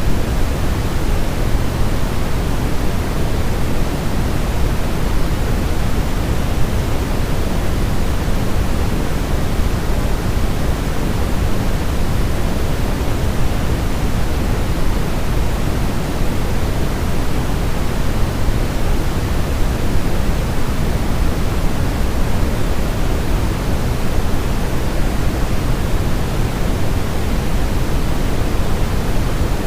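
Steady, even rushing noise weighted toward the low end, like pink noise, played as a white-noise track to soothe a crying baby to sleep; it does not change.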